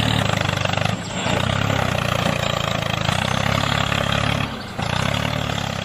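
A vehicle engine running steadily at a low, even pitch, dropping off briefly about a second in and again near the end.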